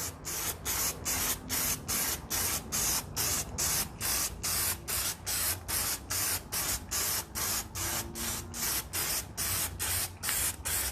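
Spray paint can hissing in short, quick bursts, about three a second: light dusting passes of paint over a stencil.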